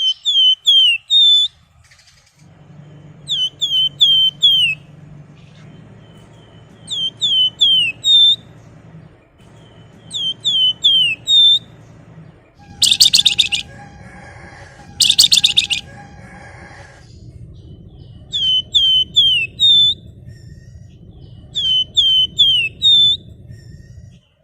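Flamboyan songbird singing: short phrases of four or five quick down-slurred whistled notes, repeated every few seconds, with two loud harsh rattling bursts about halfway through. A steady low hum runs underneath.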